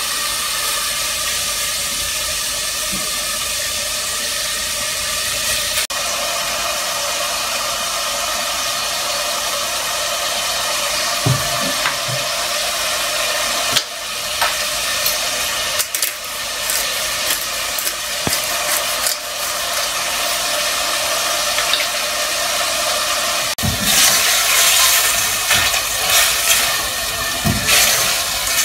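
Food sizzling in a stainless steel saucepan on a gas hob: a steady sizzle with a few light knocks of a spatula stirring against the pan. The sizzle gets louder and more crackly after about 24 seconds.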